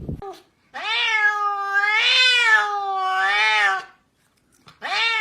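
A cat meowing in long, drawn-out wavering calls: one lasting about three seconds, then a second starting near the end.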